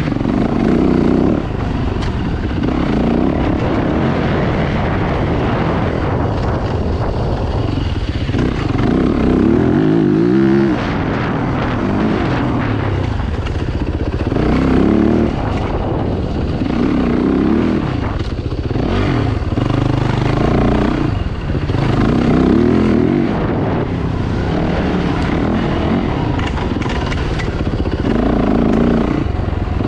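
Dirt bike engines revving and easing off over and over as the bikes ride, with swells every few seconds over a steady low rumble.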